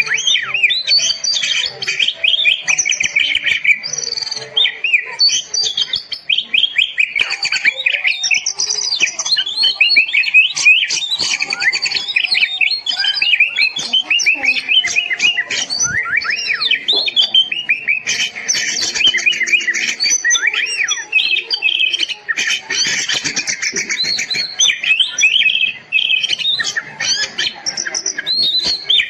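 Oriental magpie-robin (kacer) singing continuously: a loud, fast and varied song of whistles, rapid trills and chattering notes.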